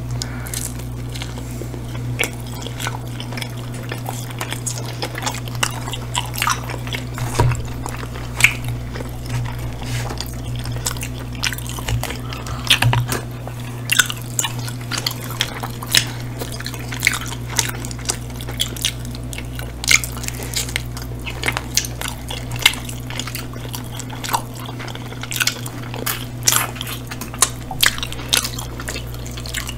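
Close-miked chewing and wet mouth sounds of people eating pepperoni pizza and chicken wings, with frequent short smacks and clicks over a steady low hum.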